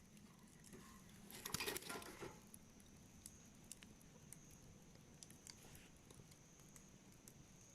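Wood campfire crackling quietly, with scattered small pops and a brief flurry of louder crackles about one and a half seconds in.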